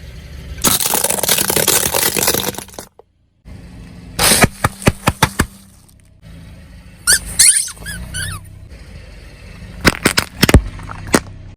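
Objects crushed under a car's tyre in a series of cut-together clips: a rushing hiss, runs of sharp cracks and crunches, and a brief squeaky stretch.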